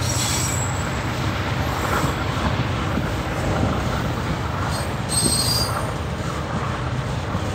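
Freight train of autorack cars rolling past, a steady rumble of steel wheels on the rails. Brief high-pitched wheel squeals come right at the start and again about five seconds in.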